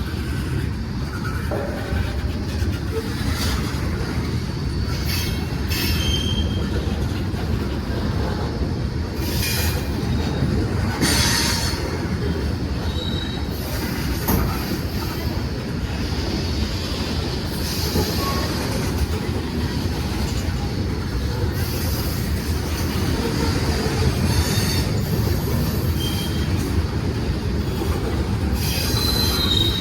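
A train rolling past at close range: a steady rumble of railcars on the track with scattered clicks and several brief high-pitched wheel squeals.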